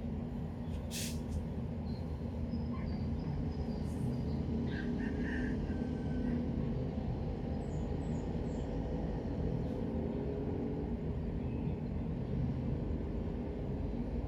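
Steady low rumble of background noise with a faint hum, and a few brief, faint high chirps scattered through it.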